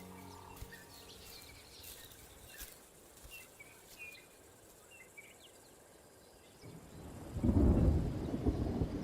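Scattered small bird chirps over quiet bush ambience, then about seven seconds in a loud low rumble of thunder builds and carries on.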